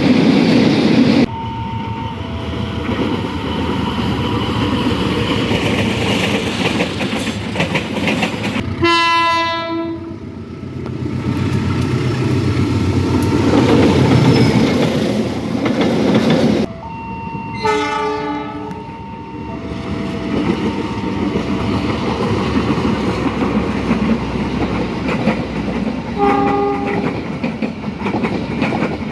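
Train passing over a level crossing, its wheels clattering over the rail joints. Its horn sounds about nine seconds in and again around eighteen seconds, with a short blast near the end.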